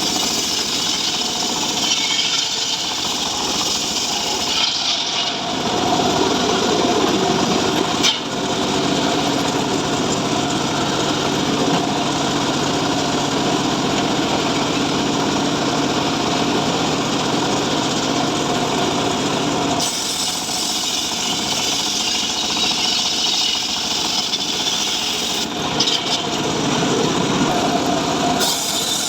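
Chainsaw engine running and cutting mahogany wood. About five seconds in the note drops and thickens as the chain bites into the wood under load, then lightens again about twenty seconds in.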